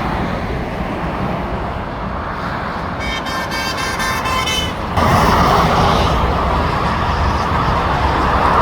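Steady motorway traffic noise, with a vehicle horn sounding for nearly two seconds about three seconds in. Just after the horn stops, the traffic rush gets suddenly louder as a vehicle passes close.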